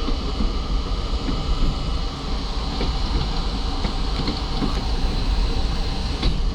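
R32 subway train running, heard from inside the lead car: a steady rumble of wheels on rail with a few faint clicks.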